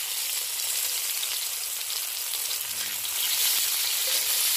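Skewered sausages and meatballs sizzling in hot oil on a non-stick grill pan: a steady high hiss, a little louder in the second half.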